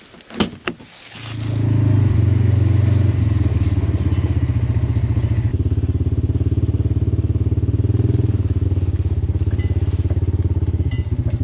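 A couple of knocks, then a side-by-side utility vehicle's engine starts about a second in and runs steadily with a low, pulsing rumble.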